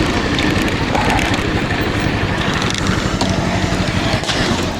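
Rented motor scooter on the move: wind buffeting the microphone over the engine noise. Near the end it settles into a steady low hum as the scooter comes to a stop.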